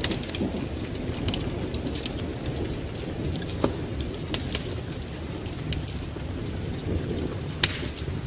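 Wood fire crackling in a fireplace: irregular sharp pops and snaps, several standing out, over a low steady rumble of the flames.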